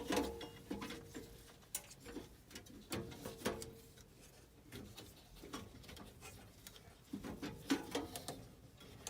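Irregular light metallic clinks and knocks of gas furnace in-shot burners being handled and fitted back onto the burner assembly.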